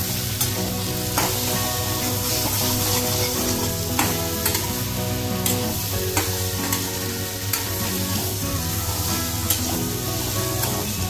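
Shredded cabbage and potatoes sizzling in a kadai while a metal spatula stirs and tosses them, with irregular clicks and scrapes of the spatula against the pan every second or so.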